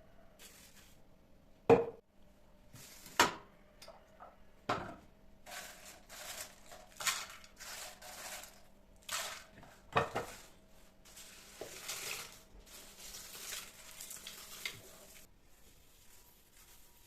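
Kitchen work with dishes and utensils: a few sharp clacks as things are set down, with stretches of scraping and rustling between them, over a faint steady hum that stops near the end.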